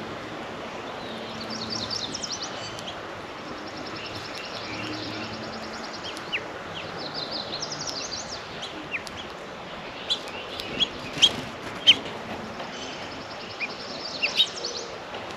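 Several songbirds singing and calling: short trilled songs and a long even trill in the first half, then a run of sharp, loud chip notes in the second half.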